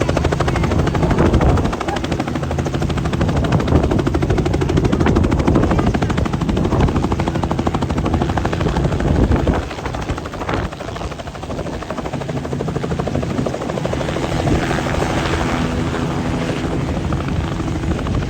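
Helicopter in flight, its rotor beating in a fast, even chop over a steady hum; the sound drops a little about ten seconds in.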